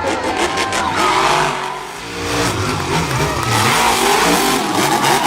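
Monster truck engine revving hard, its pitch rising and falling again and again, with a brief drop in level about two seconds in.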